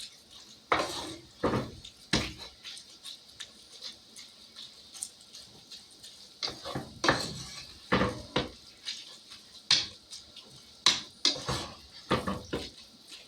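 A cooking utensil knocking and scraping against a frying pan in irregular strokes, one to three a second, as ground beef is broken up in it.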